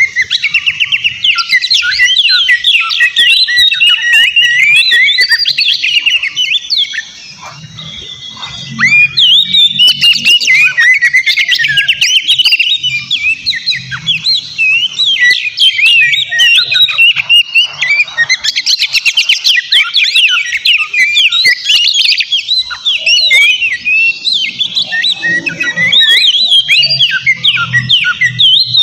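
Oriental magpie-robin singing loudly and almost without pause, a fast, varied run of whistles, chirps and harsh notes, with a brief lull about seven seconds in.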